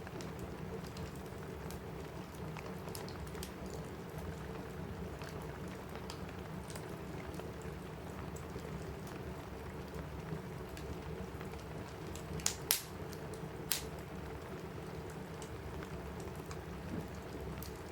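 Steady rain on a roof blended with a crackling wood fire in a fireplace: a constant low hiss of rain with scattered small crackles, and a few louder sharp pops about two-thirds of the way through.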